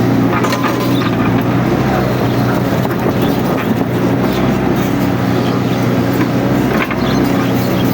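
Mini excavator's diesel engine running steadily at working speed, with scattered clicks and rustling over it.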